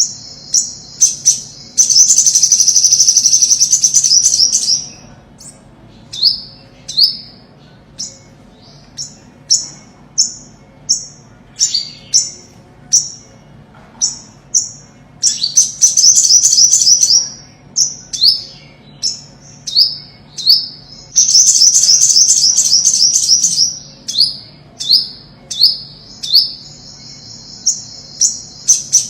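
Olive-backed sunbird singing: high, sharp down-slurred notes about once a second, broken several times by fast trilled runs lasting a couple of seconds.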